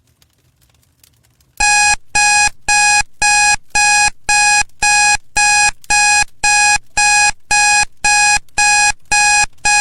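Study timer alarm going off at the end of a 40-minute session: a loud electronic beep repeated evenly about twice a second, starting about a second and a half in.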